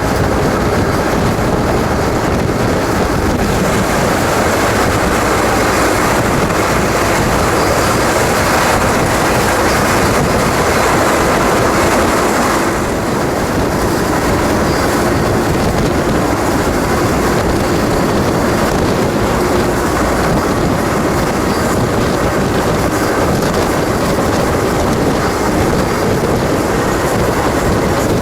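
Moving freight train, heard from aboard a rolling car: a loud, steady rumble and rattle of wheels and cars on the rails.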